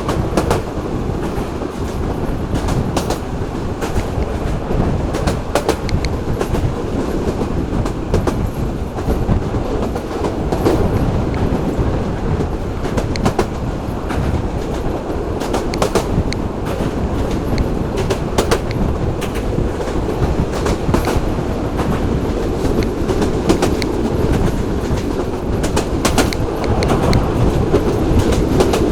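Local passenger train running along the track: a steady low rumble with the clickety-clack of wheels over rail joints, sharp clicks often in pairs every few seconds.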